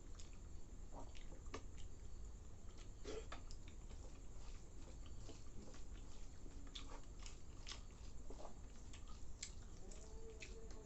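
Mouth sounds of someone chewing chuda (flattened rice) soaked in milk: faint, irregular smacking and clicking over a low steady hum.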